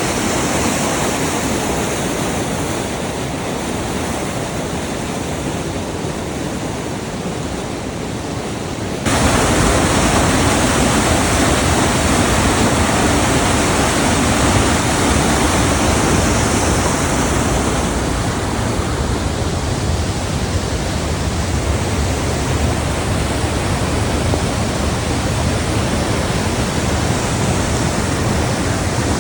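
Rushing water of a stream or small waterfall, a steady rush of noise; about nine seconds in it jumps louder and fuller.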